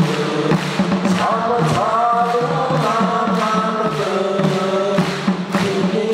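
Choir singing in harmony, long held notes over a backing track with a steady beat.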